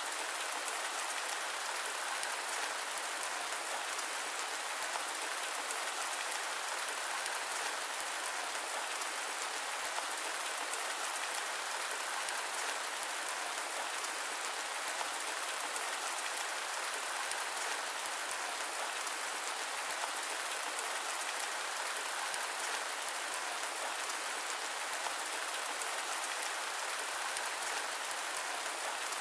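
Steady rain falling: an even hiss with fine pattering drops, unchanging throughout.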